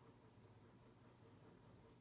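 Near silence with a faint, steady hum from a Mainstays Hugger 42-inch ceiling fan running, with a soft, even pulsing in the hum.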